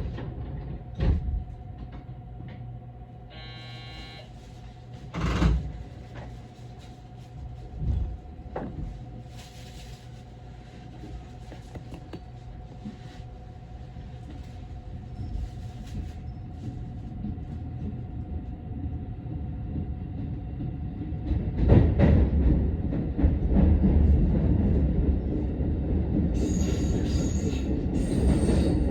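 Electric commuter train heard from the cab: a steady hum with a few short thuds, then from about two-thirds of the way through a louder rumble of wheels and running gear, with a thin high whine near the end.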